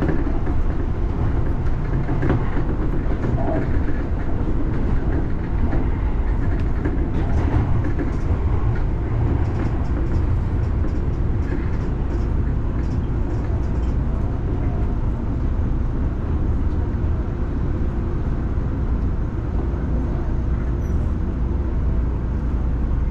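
Seibu Shinjuku Line electric commuter train running along the track: a steady low rumble, with scattered sharp clicks from the wheels over the rails in the first half.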